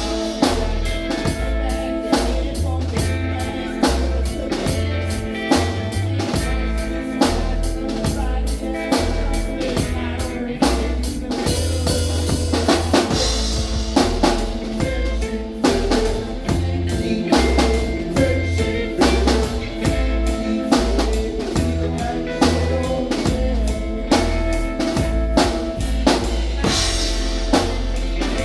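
Live band playing a song, with a steady drum-kit beat and a bass line under sustained instrument notes.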